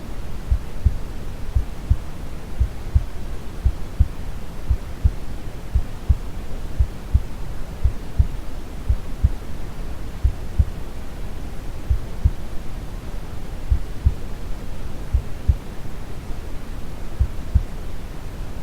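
Brown noise, a steady deep hiss strongest in the low end, with a slow, calm heartbeat of soft low thumps repeating over it.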